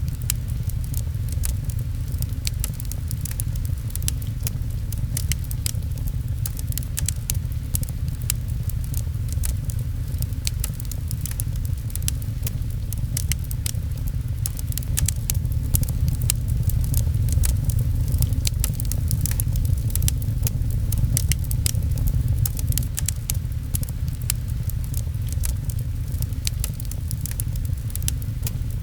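Fireplace crackling, with many small sharp snaps scattered over a steady deep rumble, blended with a continuous patter of rain on a window.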